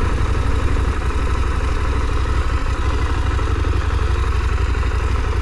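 Motorcycle on the move heard from a helmet-mounted camera: steady wind buffeting on the microphone over the even run of the KTM 890 Adventure's parallel-twin engine.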